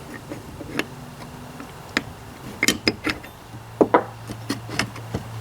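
Scattered light metallic clicks and taps of hand work on tractor parts as a small bolt is fitted and lined up, with a steady low hum in the background that grows louder near the end.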